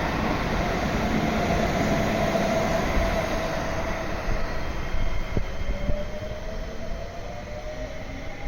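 A train passing through a station at speed: heavy wheel and rail noise with a steady whine, loudest at first and fading after about five seconds. There is one sharp knock partway through, and a whine rising in pitch near the end.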